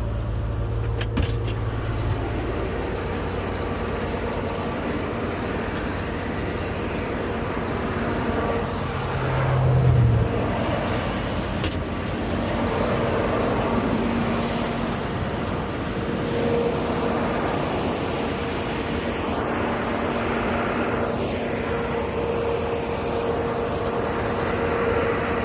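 Semi truck's diesel engine running steadily, with a louder low surge about ten seconds in.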